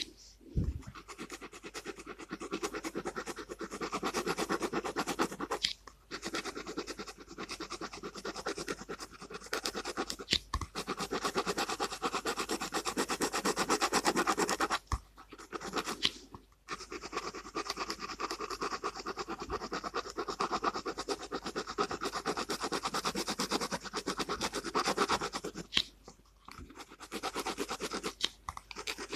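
Gel pen scratching rapidly back and forth on paper, colouring in with dense short strokes, stopping briefly a few times.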